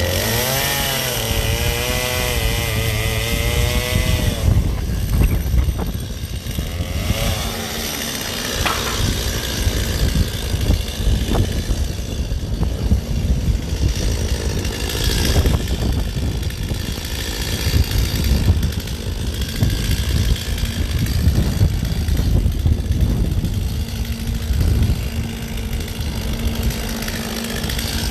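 Gas chainsaw running, its engine pitch rising and falling for the first few seconds, then cutting into a block of ice with a rough, uneven noise.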